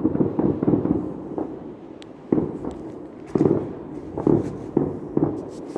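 Fireworks going off in quick, irregular succession: many dull bangs and pops, with sharper crackling coming in near the end.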